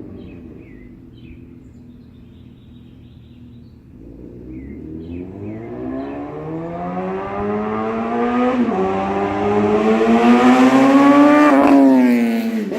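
A 2014 Suzuki GSX-R 750's inline-four running through a catless header and M4 slip-on exhaust. It fades into the distance, then comes back revving up, shifts up about nine seconds in, and passes close by near the end with a sudden drop in pitch. Birds chirp faintly while the bike is far off.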